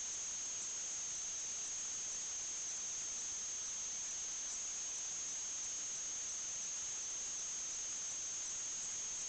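Steady hiss under a constant high-pitched whine, with no change in level or pitch.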